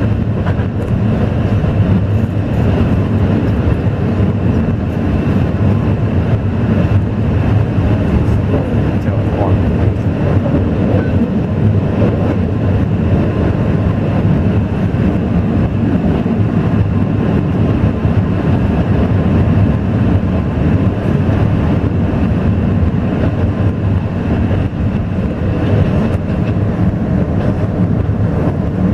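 Steady, unbroken rumble of an Alishan Forest Railway train, heavy in the low end.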